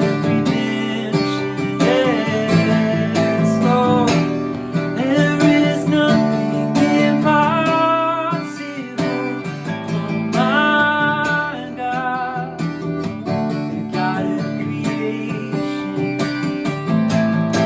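Strummed acoustic guitar accompanying a man singing a slow worship song melody, with long held, wavering vocal notes.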